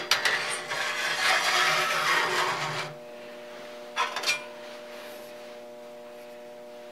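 Thin sheet-metal slides of a surface grinder's dust cover bracket scraping and rubbing as they are handled for about three seconds, then two light metallic clicks. A steady electrical hum runs underneath.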